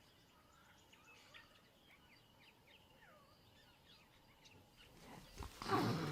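Faint bird chirps over quiet bush ambience, then about five seconds in a leopard breaks into loud, rough growling as the male and female meet.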